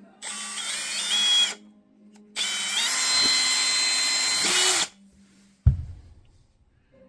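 Power drill or driver running in two bursts, the first about a second long and the second about two and a half seconds, its whine stepping up in pitch as it speeds up, followed by a single knock.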